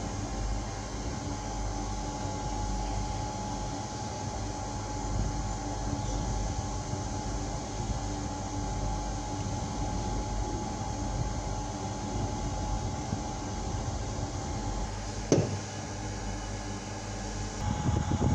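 Steady low rumble and hum with a faint steady tone, like a running machine or vehicle, broken once by a single sharp knock about fifteen seconds in.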